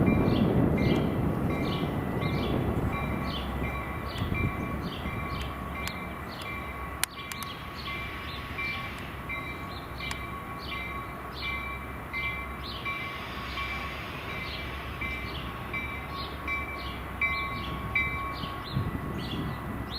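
Railroad grade-crossing bell ringing in an even rhythm, about two strokes a second, while the rumble of a passing train fades away over the first few seconds.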